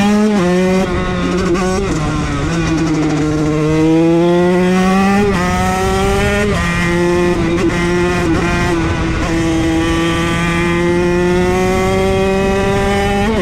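Motorcycle engine accelerating through the gears, its pitch climbing steadily and then dropping at each shift. There are several quick shifts in the first couple of seconds, then longer pulls.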